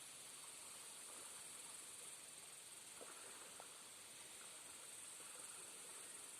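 Near silence, with a faint steady high-pitched insect chirring and a couple of faint ticks about three seconds in.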